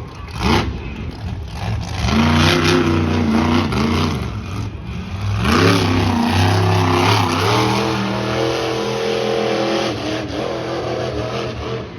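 Monster truck engine revving hard, its pitch climbing and falling in two long surges. A short sharp bang comes about half a second in.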